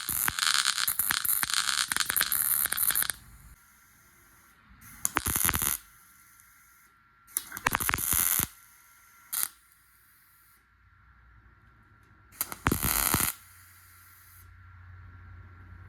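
Welding arc crackling in bursts while stitch-welding a sheet-steel cowl panel: one run of about three seconds at the start, then three bursts of about a second each and one very brief one, with short pauses between.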